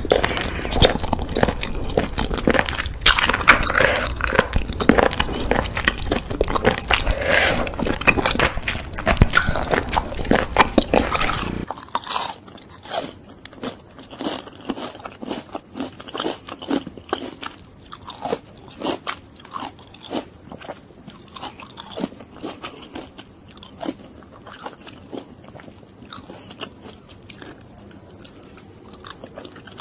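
Close-miked ASMR eating sounds: loud, dense chewing of spicy baby octopus and enoki mushrooms. About twelve seconds in it cuts abruptly to quieter, sparser mouth clicks and chewing, with raw sea urchin being eaten near the end.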